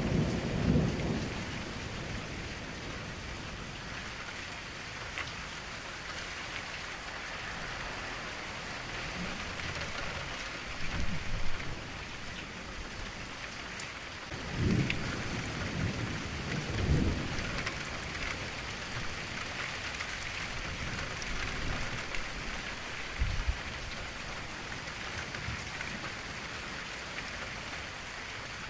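Steady rain sound effect, a constant hiss of falling rain, with several low rolls of thunder rumbling up and fading away.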